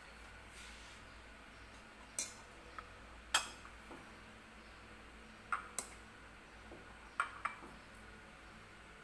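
Kitchen dishes and utensils clinking as they are handled: about seven short, sharp clinks with a brief ring, mostly in pairs, over a faint room hum.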